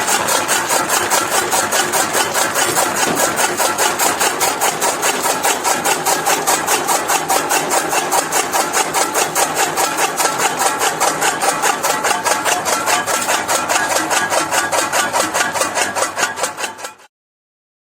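Motorized chaff cutter (grass-chopping machine) running and chopping fodder grass into small pieces, with a rapid, even chopping rhythm of about five or six strokes a second. It stops abruptly near the end.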